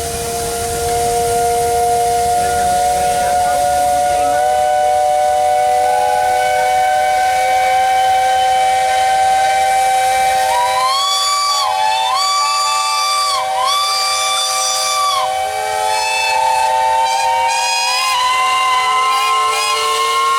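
Several traction engine steam whistles sounding together in a whistle-up, held steady as overlapping tones. About halfway through, a higher whistle gives three blasts in a row, each swooping up in pitch as it opens.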